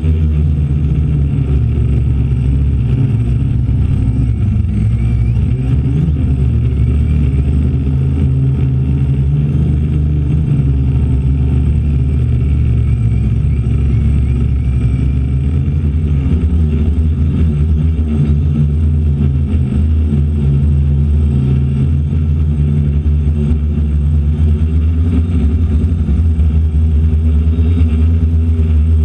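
DJI Flame Wheel F450 quadcopter in flight in 20–30 mph winds: a loud, steady low rumble of wind buffeting the onboard GoPro's microphone, with the hum of the electric motors and propellers underneath.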